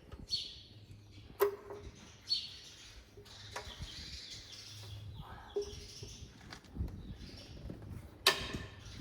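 Birds chirping now and then, with three sharp metallic clicks of hand tools working on the engine's connecting-rod cap bolts, over a low steady hum.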